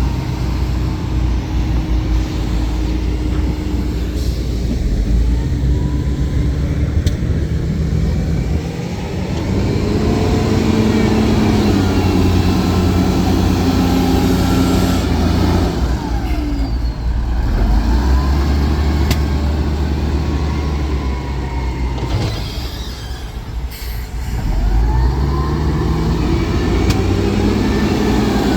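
Heavy earthmoving machine's diesel engine running loud under load, its revs rising and falling repeatedly as it works sand, with a brief drop in power about nine seconds in and again about three quarters through.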